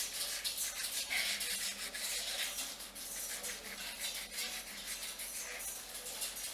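Fingernails scratching through hair on the scalp: a continuous, rapid scratchy rubbing.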